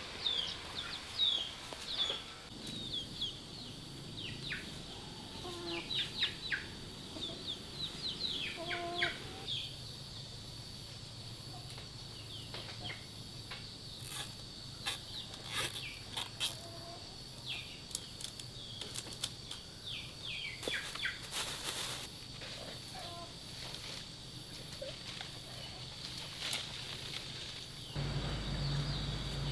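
Chickens, with many short high downward peeps in clusters, some low clucks, and brief flurries of wings flapping and scuffing now and then. A steady thin high tone sounds behind them.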